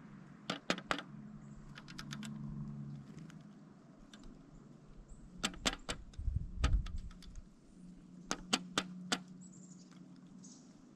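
Pileated woodpecker pecking at a suet feeder: bursts of three or four sharp knocks in quick succession, repeated several times, with a dull low thump about two-thirds of the way through.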